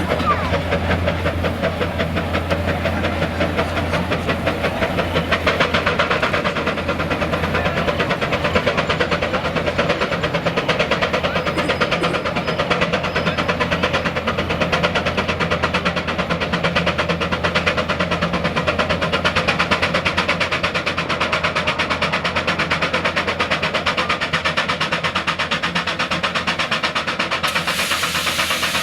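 Steam traction engine working hard under load, its exhaust chuffing in a fast, steady beat as it pulls the weight sled.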